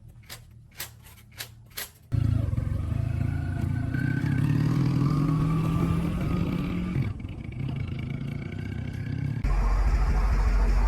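A few sharp clicks, then a small motorcycle engine starts running abruptly and keeps going, with two sudden shifts in its sound.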